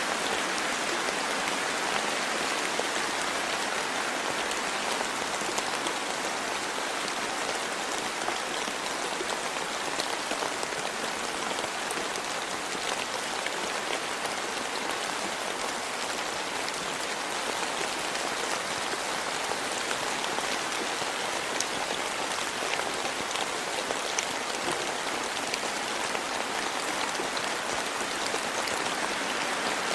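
Steady rainfall, an even hiss of rain with scattered sharp ticks of individual drops hitting nearby surfaces.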